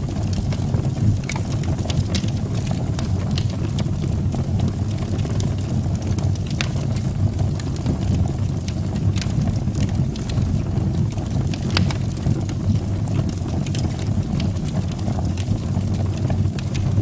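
Wood fire burning in a fireplace: a steady low rumble from the flames with scattered sharp crackles and pops from the burning wood.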